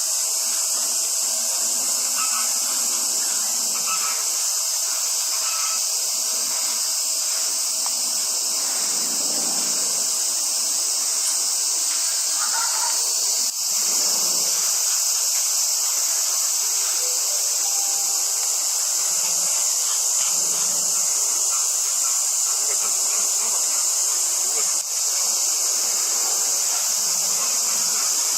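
Steady, high-pitched chorus of summer cicadas buzzing without a break.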